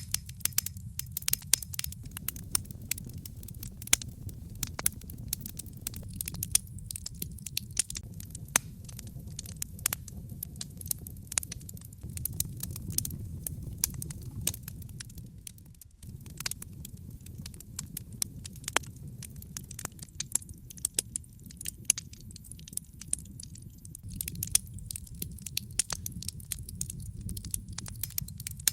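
Wood fire in a fireplace crackling, with many sharp irregular pops and snaps from the burning logs over a low steady rumble.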